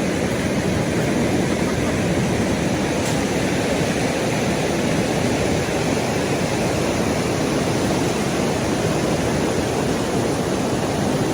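Rushing river water: a steady, unbroken noise of flowing water.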